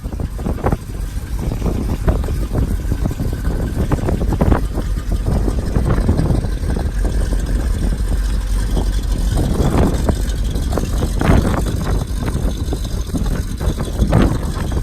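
1964 Chevrolet Corvette Stingray's small-block V8 running at idle, a steady low rumble with irregular brief surges.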